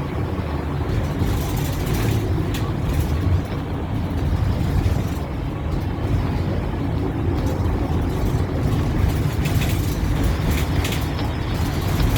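Inside a bus: a steady low engine drone and rumble, with a few short rattles.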